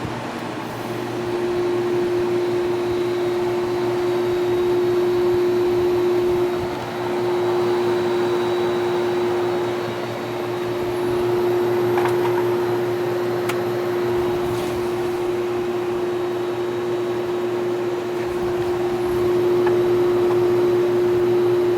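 Whirlpool window air conditioner running, with its fan blowing and its compressor on: a steady hum with a steady tone over it that comes in about a second in, and a few faint ticks.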